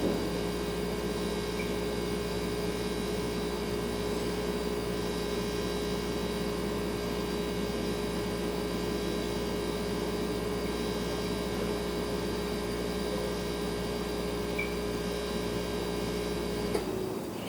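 Refrigerator compressor running with a steady hum and a few steady tones. Near the end it switches off with a click, the low hum stops, and the fridge settles at the end of its cooling cycle.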